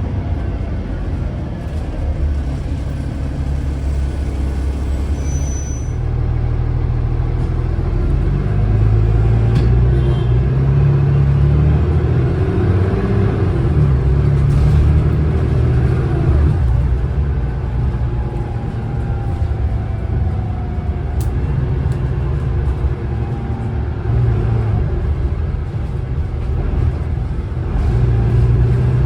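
Cummins ISLe Euro 5 diesel engine of an Alexander Dennis Enviro500 double-decker bus running under way, a steady low drone that swells louder for a long stretch in the middle and again near the end as the bus pulls away and accelerates.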